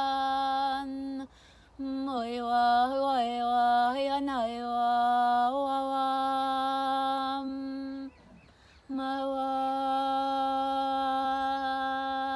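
A woman's voice toning long held notes on one steady pitch, with a wavering stretch of sliding pitch in the middle. Twice it breaks off briefly before going on.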